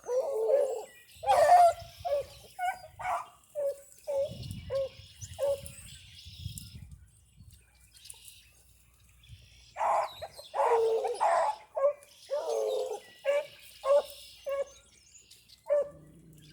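A pack of rabbit hounds giving tongue on a rabbit's trail: short, repeated barks and bays, breaking off for a couple of seconds midway and then coming thick again with longer, drawn-out calls.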